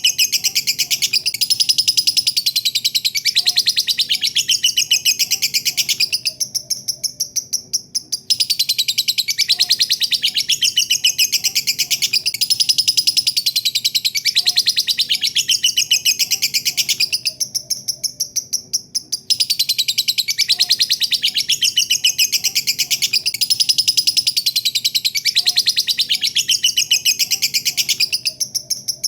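Lovebird's long 'ngekek' chatter: a fast, unbroken run of shrill chirps. It tapers off into short breaks about six seconds in, about seventeen seconds in and near the end, then starts again.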